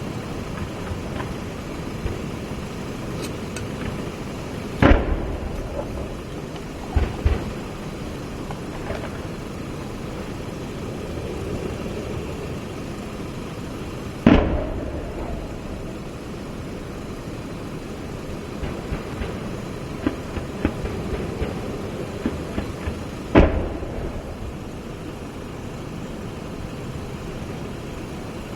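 Three loud weapon reports about nine seconds apart, each trailing off in a short echo, with a smaller pair of cracks a couple of seconds after the first, over a steady background rumble.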